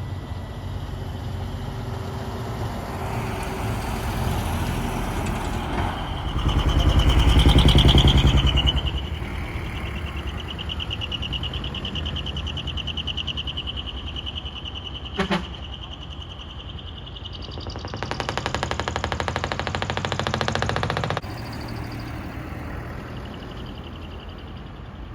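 Heavy decorated trucks and trailer rigs driving past one after another, diesel engines running. The loudest one passes close about a quarter of the way in. A steady high tone runs through the middle, with a brief sharp sound about fifteen seconds in.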